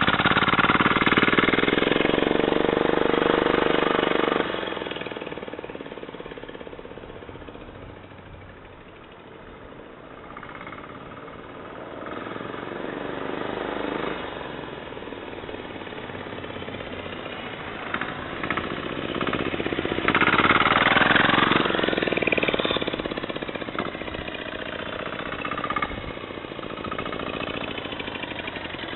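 Single-cylinder, 406 cc air-cooled four-stroke diesel engine with a small turbocharger, powering a mini bike. It runs loud with its pitch rising for the first few seconds, then fades well down. It grows loud again about twenty seconds in and eases off toward the end.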